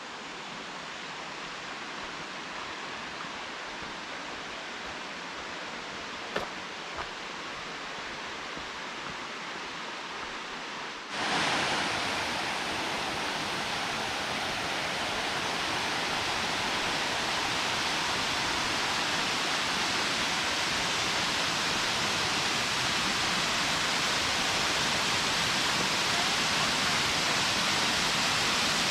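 Rushing water of a mountain creek and waterfall, a steady hiss with no pitch. About eleven seconds in it jumps suddenly to a louder, fuller rush and keeps growing a little louder. One faint tap sounds about six seconds in.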